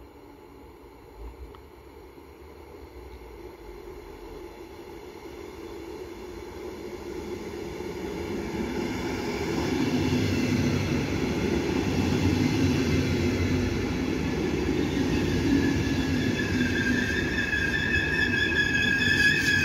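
Regional train of double-deck coaches pulling into the station. The rumble of wheels on rails grows louder through the first half, then holds steady. Near the end a high steady squeal sets in, typical of the brakes as the train slows.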